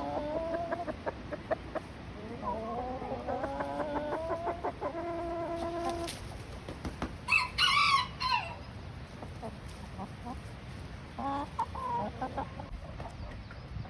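A rooster crowing: two long calls, each rising and then held steady. About seven and a half seconds in comes a louder, higher-pitched chicken call, and near the end a few short clucks.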